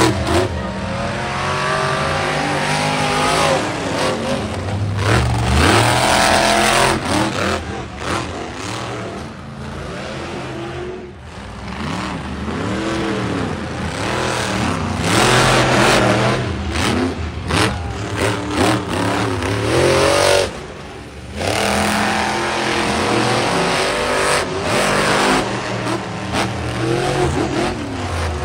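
Monster truck engines revving hard, the pitch climbing and falling again and again as the throttle is worked, with a sudden drop about two-thirds of the way through.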